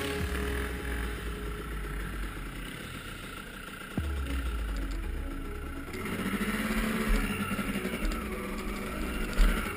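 Dirt bike engine running under a heavy low rumble, its pitch rising and falling once around six to seven seconds in; a sharp knock about four seconds in.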